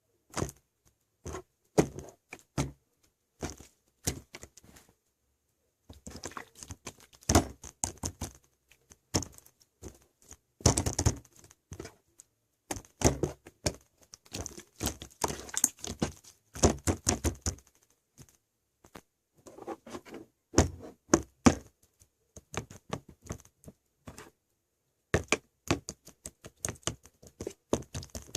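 Slime being squished and poked by hand, making crackling clicks and pops in bursts of a few seconds with short pauses between.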